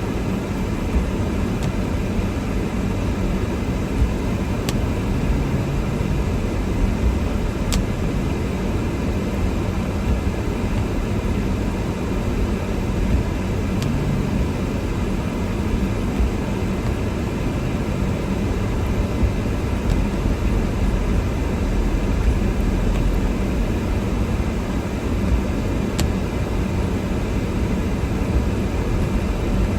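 Steady low rumble of a car being driven, heard from inside the cabin: engine and tyre noise on a snow-covered road, with a few faint clicks.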